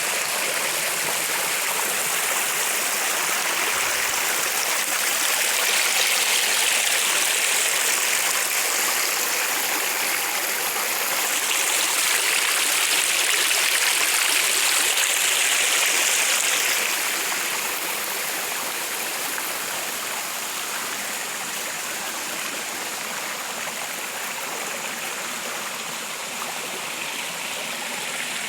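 Running water of a stream or small waterfall, a steady rushing and splashing that swells a little for several seconds midway, then eases off slightly.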